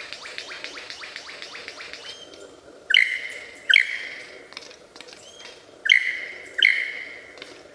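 Birds calling: a quick run of short chirps for about two seconds, then four loud harsh calls in two pairs.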